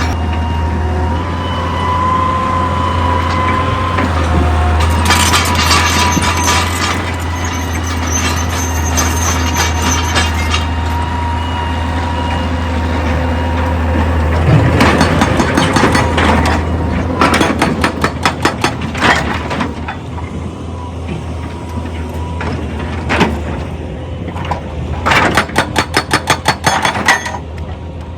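Heavy diesel machinery running with a steady low drone and a thin whine. From about halfway through come bursts of rapid, evenly spaced knocking.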